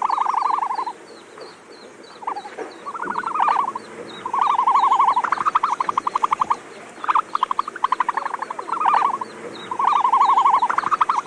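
Animal calls: a series of rapid pulsed trills, each lasting about half a second to a second and repeated with short gaps, over a faint, fast, even high chirping.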